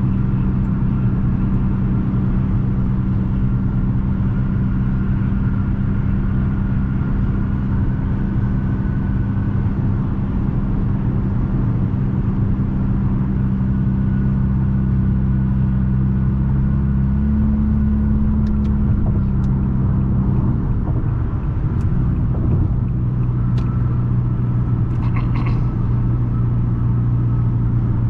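Straight-piped 2020 Nissan Altima's exhaust droning steadily while cruising on the highway. Its pitch shifts a little past the middle and then settles lower, as the engine speed changes. A few faint ticks come near the end.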